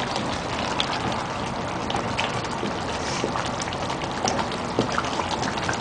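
Chicken curry simmering in a pan on a low flame, thick sauce bubbling with many small pops and a steady sizzle; the oil has separated and risen to the top, the sign that the curry is done.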